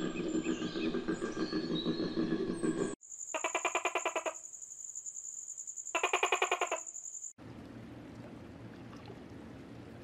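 A koala's low, rhythmic bellowing grunts with birds chirping over them. They cut off after about three seconds. Two rapid pulsed chirping trills follow, each about a second long, over a steady high whine. Near the end comes an even watery hiss.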